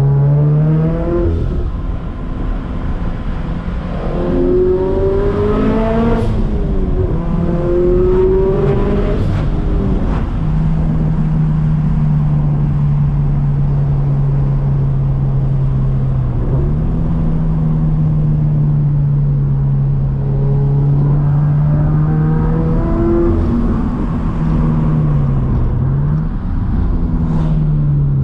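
Turbocharged Scion FR-S's flat-four boxer engine on the move. It pulls up in pitch in a few rising surges, then holds a steady drone, with a brief dip and recovery and a fall in revs near the end.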